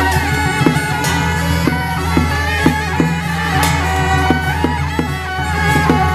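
Traditional Taiwanese temple ritual music: a reed wind instrument carries a melody over steady low held tones, with regular percussion strikes.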